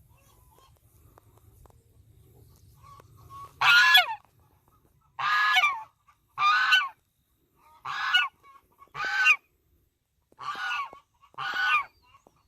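Goose honking: seven loud, separate honks, starting about four seconds in and spaced about a second apart.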